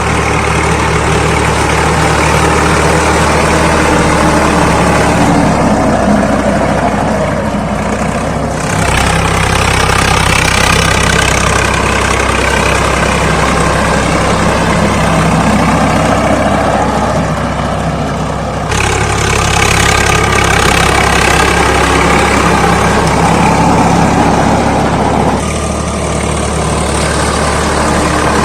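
Swaraj 855 FE tractor's three-cylinder diesel engine running steadily, with a constant low engine note. The sound shifts abruptly three times, about 9, 19 and 25 seconds in.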